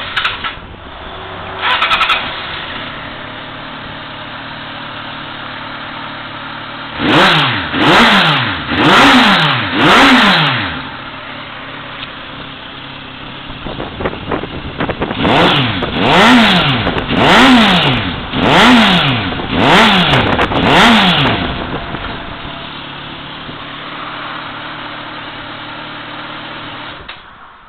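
Motorcycle engine breathing through a WR'S titanium silencer. It idles, with two quick blips at the start, then four free revs about seven seconds in, each pitch rising and falling back. About fifteen seconds in comes a run of about six more revs, then it settles back to idle and cuts off near the end.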